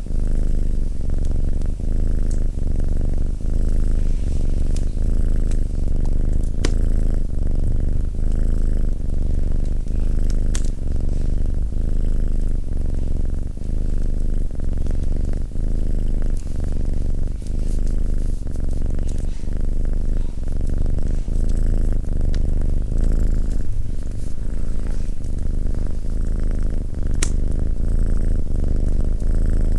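Domestic cat purring loudly and steadily close by, rising and falling in a regular rhythm with each breath in and out. A few faint sharp crackles from the fireplace come through, the clearest near the end.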